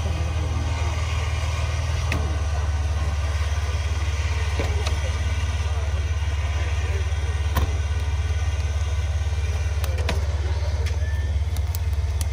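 Off-road 4x4's engine idling with a steady low rumble, with a few sharp clicks over it.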